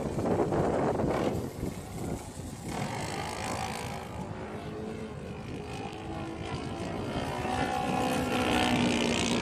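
Seagull Edge 540 radio-controlled model aerobatic plane's engine running in flight, its pitch wavering gently as the plane moves about and growing louder near the end. A loud rushing noise fills the first second or so.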